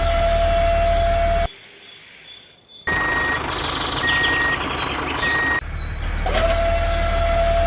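A steady vehicle or engine hum with a held whine cuts off abruptly. It gives way to three short, evenly spaced electronic beeps like a reversing alarm, and the hum and whine then come back.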